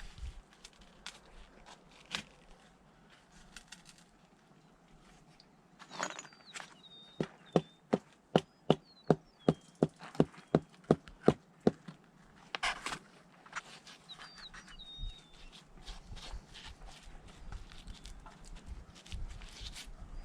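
Hammering: a run of about fourteen sharp, even strikes at about three a second, with scattered single knocks and handling noise before and after. Short bird chirps come in faintly.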